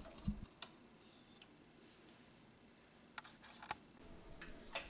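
A few faint, sharp plastic clicks and taps, scattered and irregular, as the Roomba's dust bin canister is handled and taken out for emptying.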